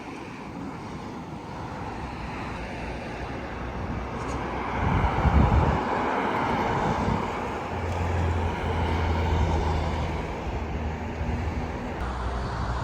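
Outdoor traffic sound with a motor vehicle passing: a rush of noise that swells towards the middle, with a loud low rumble about five seconds in and a steady low engine hum a little later.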